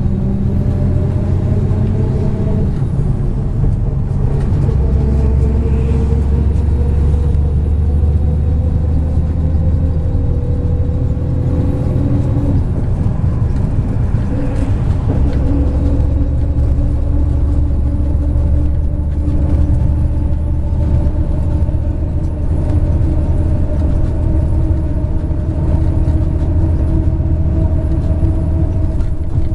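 A MAZ 103.562 bus's diesel engine and drivetrain running under way, heard from inside the cabin. The engine note rises slowly for the first dozen seconds, drops about halfway through as it changes gear, then holds steady, with a faint high whine above it.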